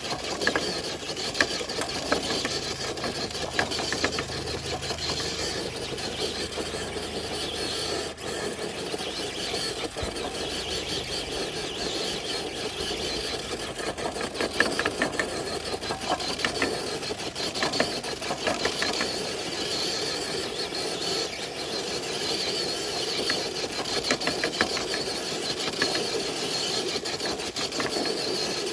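An electric RC crawler truck's motor and geared drivetrain running steadily under load as it drags a weighted dead sled. It makes a steady whine with many small clicks and crackles throughout.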